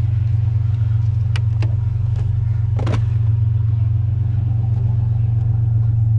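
Vehicle engine idling with a steady low hum, with a few brief knocks from something being handled.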